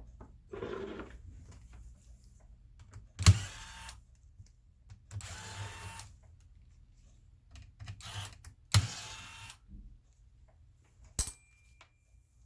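A laptop being taken apart by hand: three sharp plastic clicks, with short stretches of scraping and rubbing between them as parts are handled.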